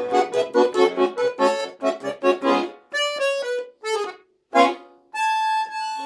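Accordion playing the closing bars of a song: a quick run of short notes, then a few held chords with short breaks, ending on a sustained chord.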